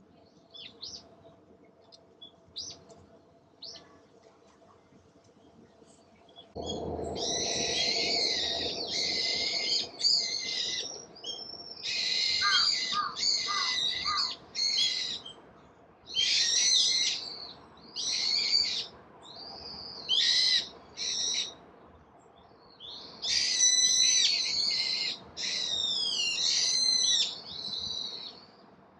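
A songbird singing loud, intricate phrases of a second or two each, repeated with short pauses, after a few faint high chirps. A low, steady background hiss comes in with the song.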